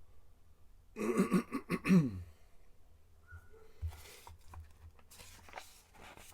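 A man clears his throat loudly for about a second, then magazine pages rustle softly as they are turned.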